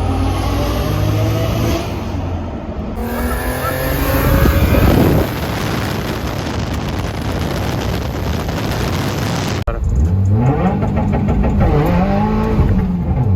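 Car engines running and revving across several cut-together shots: a steady drone, a louder rev about four to five seconds in, then after an abrupt cut an engine revved up and down a couple of times.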